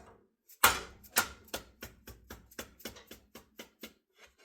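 A sharp knock followed by a quick, even run of tapping strikes, about four or five a second, that stops just before the end.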